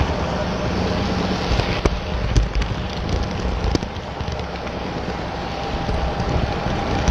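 HO scale model train running on the layout's track: a steady rolling rumble and whir with a few sharp clicks in the first half.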